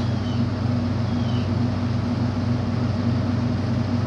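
Steady low mechanical drone of running machinery, pulsing evenly, with two faint short high chirps near the start.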